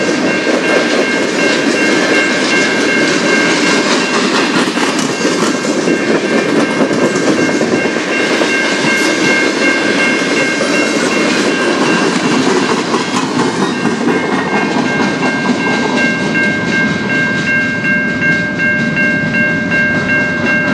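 Freight train cars rolling past at speed: steady wheel-on-rail noise with clickety-clack over the rail joints. A steady high-pitched ringing of several tones runs underneath and fades briefly partway through.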